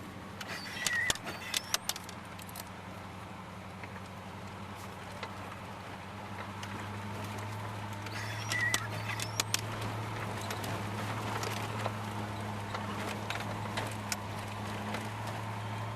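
Engine of a 1992 Dodge Dakota running on wood gas, a steady low drone heard from inside the cab as the truck drives, growing louder about seven seconds in. Loose things in the cab rattle and click over bumps, mostly near the start and again around nine seconds.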